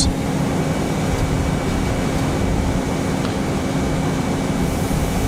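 A steady machine rumble with a constant low hum running underneath, with no change in pitch or level.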